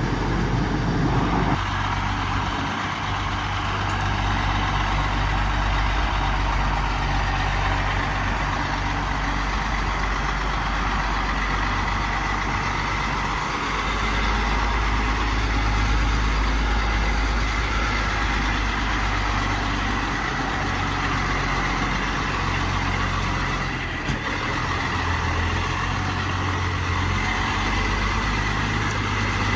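Heavy truck engine running steadily at a low idle, with a steady high whine over it.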